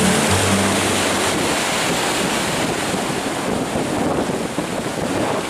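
Big ocean waves breaking in steady surf, with strong wind rumbling on the microphone.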